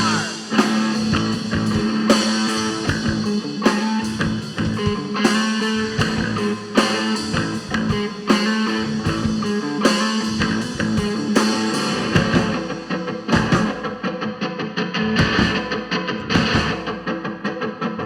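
Live rock band playing an instrumental section: guitars over drums, with no singing; the drums drop back in the last few seconds.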